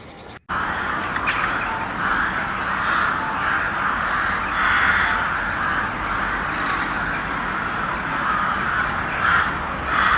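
A flock of birds calling together in a dense, continuous chorus that starts abruptly about half a second in, swelling and easing in waves.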